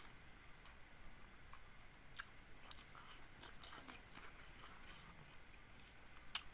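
Faint eating sounds: a person chewing a mouthful of rice and pork fry, with small scattered clicks and one sharper click near the end. A steady high-pitched whine runs underneath.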